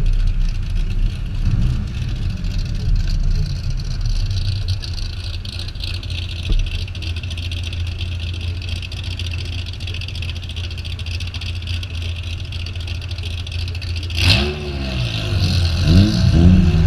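Car engine idling steadily at a standstill in traffic. Near the end the revs rise and fall a few times as the car pulls away.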